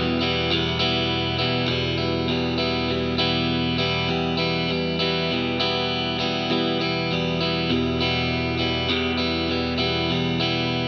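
Electric guitar strumming chords in a steady, repeating rhythm pattern, about three strums a second, with the chords ringing on between strokes.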